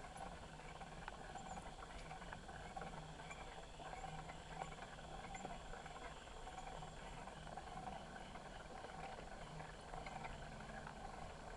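Bicycle rolling along a trail, picked up by a handlebar-mounted camera: a steady low rolling noise with scattered small clicks and rattles from the bike.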